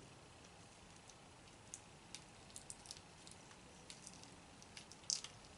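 Faint, scattered wet clicks and crackles from eating steamed tiger shrimp, a handful over a few seconds, the loudest cluster about five seconds in.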